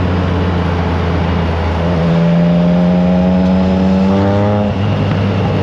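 Triumph Trident 660's inline three-cylinder engine breathing through an aftermarket FireTong exhaust while riding, heard from on the bike. Its note holds steady, climbs from about two seconds in as the bike accelerates, then drops suddenly near the end.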